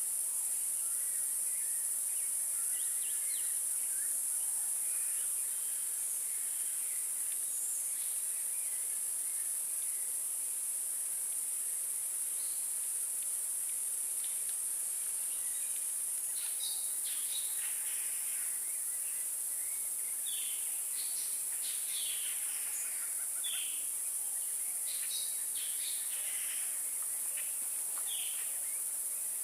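Steady high-pitched insect chorus, with many short bird calls and chirps scattered over it, busier in the second half.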